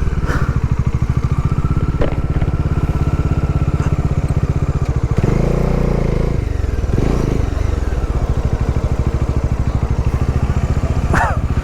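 Bajaj Dominar 400's single-cylinder engine running steadily under way, its firing pulses even throughout, with a brief louder burst of other noise about five seconds in.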